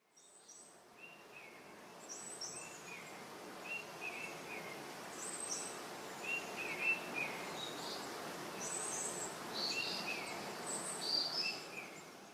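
Small birds singing in short, repeated chirping phrases over a steady rushing background of outdoor noise, fading in at the start and out near the end.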